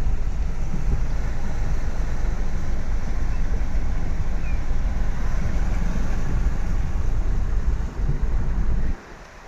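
Steady low rumble of wind buffeting the microphone over the hiss of heavy rain. It drops away suddenly near the end.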